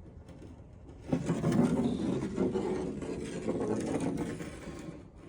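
Mechanical scraping and rattling, starting about a second in and easing off near the end.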